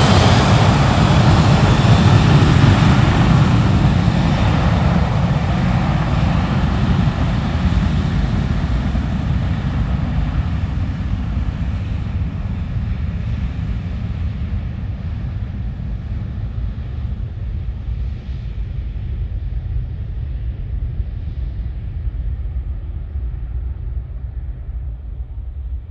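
Jet airliner engines rumbling loudly, then fading steadily as the plane moves away, the higher hiss dying out first and a low rumble lingering.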